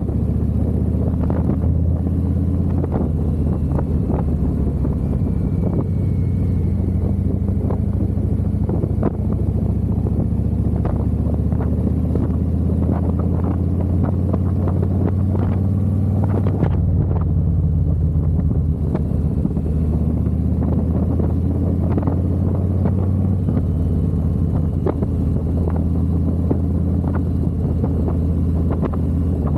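Harley-Davidson V-twin motorcycle engine running under way, a deep steady engine note that shifts pitch a few times as speed and gear change.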